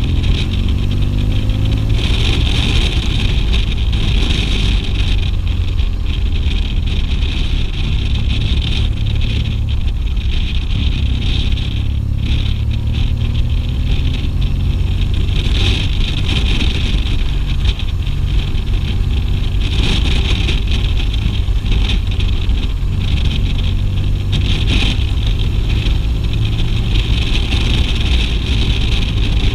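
BMW R 1200 GS flat-twin boxer engine running while the motorcycle is ridden, climbing in pitch in the first second or two as it accelerates, then holding steady.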